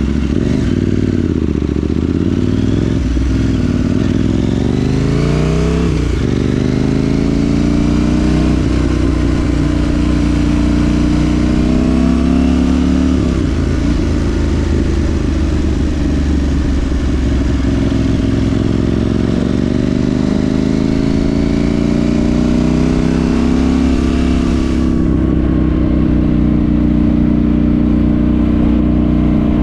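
KTM 790 Duke's parallel-twin engine through a Remus rear silencer with the catalytic converter deleted, pulling up through the gears: the pitch climbs and breaks at each upshift in the first several seconds, then settles into steadier running with further rises in revs.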